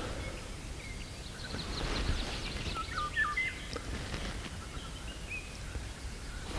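Songbirds calling: scattered high chirps and, about three seconds in, a short run of whistled notes stepping up and down in pitch, over a steady low rumble.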